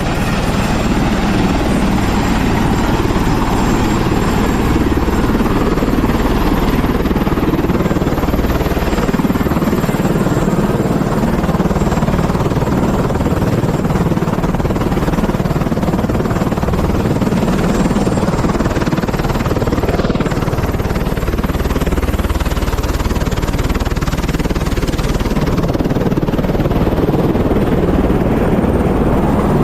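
Tour helicopter running: a loud, steady rotor and engine noise, deepest and strongest in the low range, with no change in pitch.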